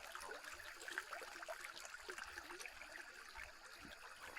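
Faint trickling water, a shallow forest stream running steadily with small scattered drips and splashes.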